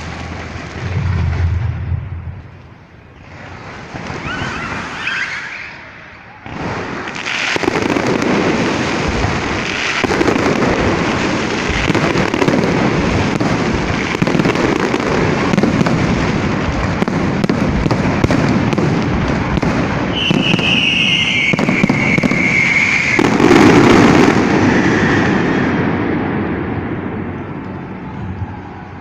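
Fireworks show: after a few scattered bursts, a dense barrage of crackling and bangs sets in about six seconds in and keeps going, peaking a little after twenty seconds, then fading near the end. A single falling whistle comes through about twenty seconds in.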